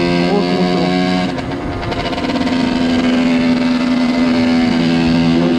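50cc motorcycle engine running at a steady note while riding. It eases off briefly about a second and a half in, then settles back to a steady pitch.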